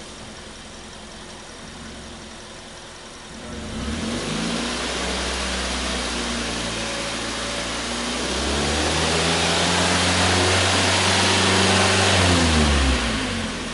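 Mazda Verisa's 1.5-litre four-cylinder engine idling, then revved up in two steps and held at each speed for a few seconds before dropping back to idle near the end.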